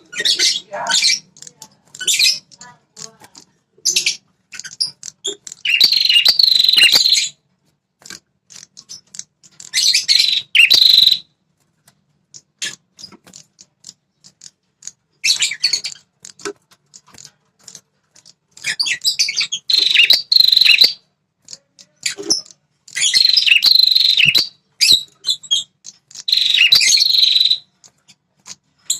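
Red-headed prenjak, a small songbird, singing in fast, loud chattering bouts of one to two seconds, high-pitched and repeated about every two to four seconds with short pauses between. It is the male's territorial, agitated song, used to provoke wild males into answering.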